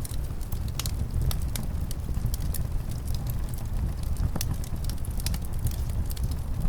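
Wood fire in a fireplace crackling, with irregular sharp pops and snaps, over a steady low rumble of winter wind.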